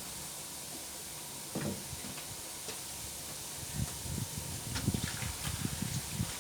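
Water being poured and sloshed into a washing machine while it is filled by hand, over a steady hiss. There is a single knock about one and a half seconds in, then a run of irregular low splashes and thumps in the second half.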